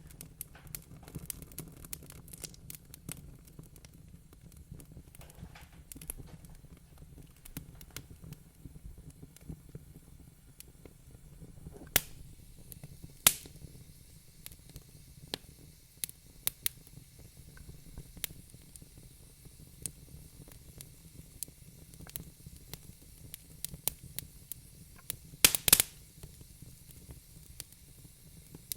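Wood fire crackling in a fireplace: frequent small crackles over a steady low rumble, with a few louder pops, the loudest a quick cluster near the end.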